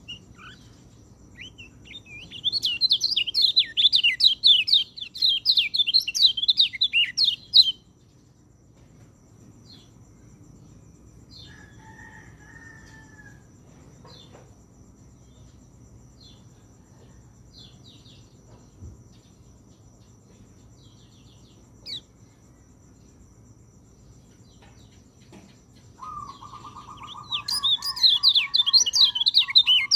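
White-eye (pleci) singing: a fast, high, twittering warble in two bouts, one a few seconds in lasting about five seconds and another near the end, with faint scattered chirps between. A lower, rapid, even trill from another bird joins near the end.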